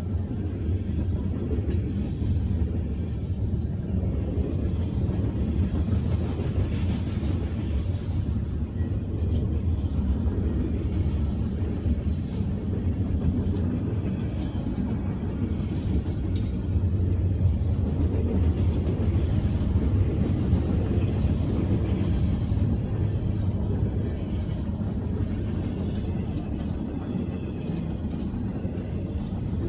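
Norfolk Southern freight train rolling past, a steady low rumble that holds without a break.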